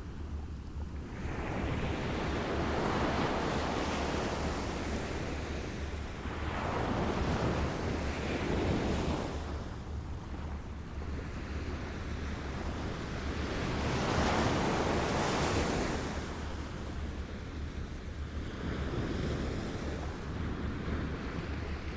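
Small waves lapping on a shore, each wash swelling and falling back every few seconds, over a steady low rumble of wind on the microphone.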